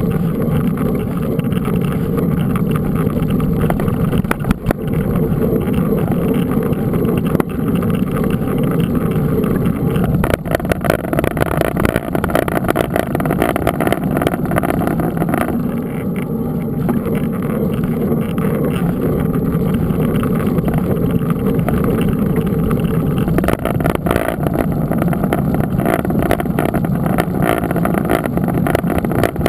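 Steady wind rumble on the microphone of a camera on a moving mountain bike, with many small clicks and rattles from the bike.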